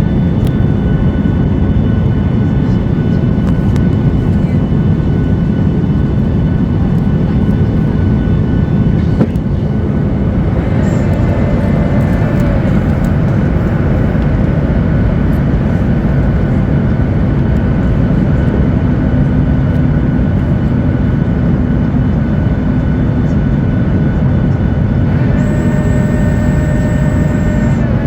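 Cabin noise of a Boeing 737-8200 airliner: a steady, loud rumble of its CFM LEAP-1B jet engines and airflow, with thin whining tones above it. About 25 seconds in, a higher whine joins.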